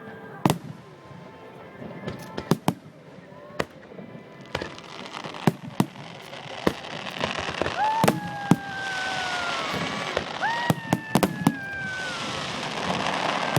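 Fireworks going off: scattered sharp bangs throughout, with two whistling shells about eight and ten and a half seconds in, each a short rising note that falls away slowly. A rushing hiss builds up in the second half.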